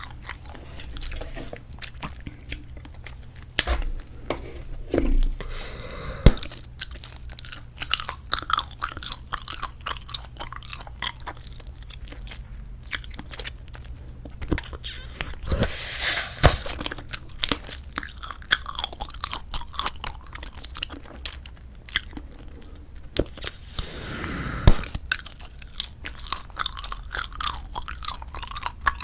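Close-miked chewing of squeeze-tube bubble gum: continuous wet smacks and clicks. There is a louder stretch about halfway through and another near the end, which finishes in a sharp snap.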